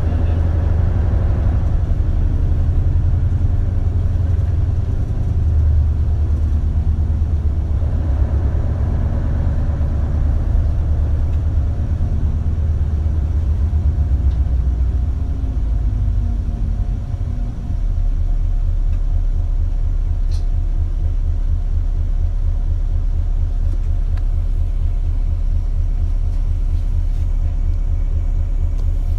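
Interior running sound of an Isuzu Erga KL-LV280L1 diesel city bus: a loud low engine rumble whose note shifts and falls over the first half. After a brief dip, about two-thirds of the way in, it settles into a steady, evenly pulsing low rumble, as at idle.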